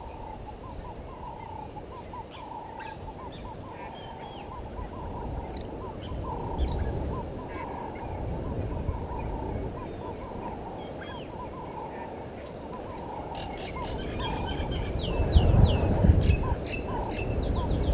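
Several wild birds calling: a steady run of short repeated notes, with scattered higher calls and a burst of sharp, quick calls near the end. A low rushing noise grows in the last few seconds.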